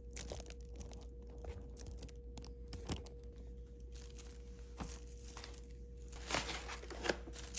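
Faint rustling and scattered light clicks of small objects being handled, over a steady low hum, with a few louder clicks after about six seconds in.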